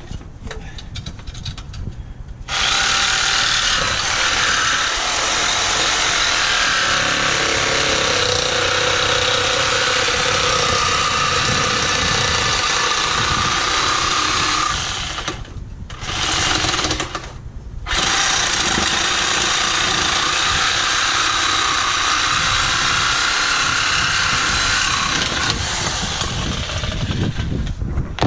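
Power saw cutting through steel exhaust pipe, a loud steady grinding noise. It stops briefly twice partway through, then carries on cutting.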